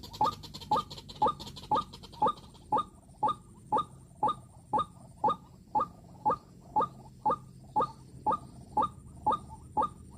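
White-breasted waterhen calling: a steady run of short, identical calls, about two a second.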